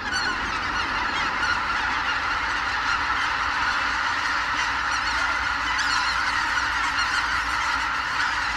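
A large flock of wild geese calling all at once, a dense, steady chorus of overlapping honks.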